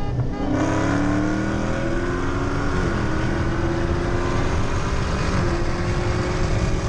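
V8 car engine under hard acceleration, its pitch climbing steadily with a couple of small steps, over road and wind noise.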